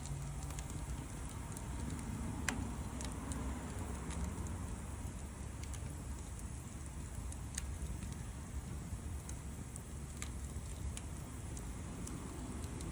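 Wood bonfire burning: a steady low rumble broken by scattered sharp crackles and pops, a few louder ones spaced several seconds apart.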